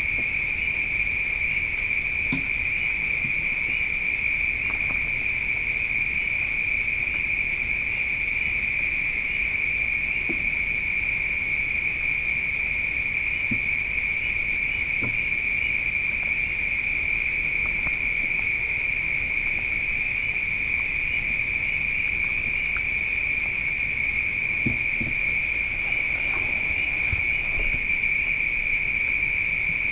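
Night insects chorusing: a dense, unbroken trilling at two high pitches, one around 2 kHz and a higher one around 5 to 6 kHz, with a few faint soft knocks beneath it.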